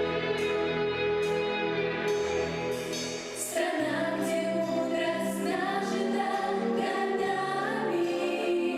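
Instrumental accompaniment playing, then a group of children's voices starts singing together in unison about three and a half seconds in.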